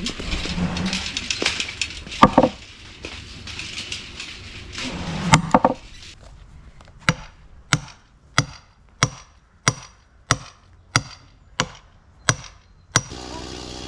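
Two loud knocks in the first few seconds, then a run of about ten sharp, evenly spaced taps, a little under two a second, that stop abruptly near the end.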